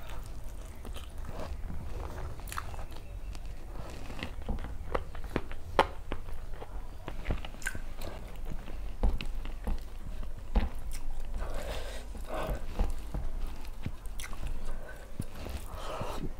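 A person chewing and biting food close to the microphone, with many short wet mouth clicks and smacks throughout.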